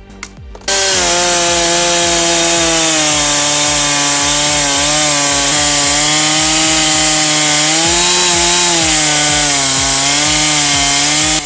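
Two-stroke chainsaw running at full throttle while ripping along a log, its engine pitch sagging and recovering as the cut loads it. It starts suddenly about a second in and runs steadily after that.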